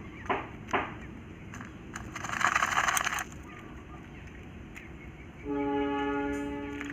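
Quail dust-bathing: a few light ticks, then a loud rustle about a second long as it flutters and flicks sand. Near the end a steady horn-like tone is held for about a second and a half.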